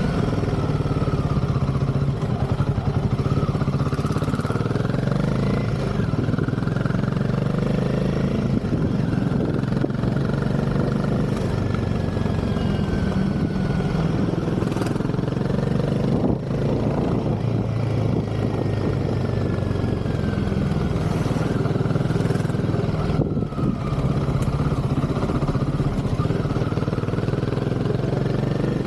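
Royal Enfield Himalayan 450's single-cylinder engine running while the motorcycle is ridden, its pitch rising and falling several times with throttle and gear changes.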